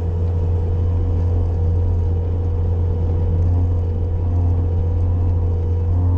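Bobcat loader's engine running at a steady speed with a constant low hum.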